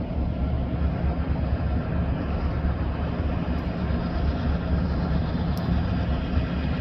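Steady low rumble of a car's engine and tyres heard from inside the moving car, with a couple of faint ticks about halfway through.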